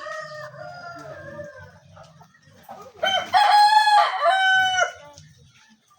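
Rooster crowing: a long, loud crow about three seconds in, lasting nearly two seconds with a brief break in the middle, after the tail of an earlier crow fades in the first second or so.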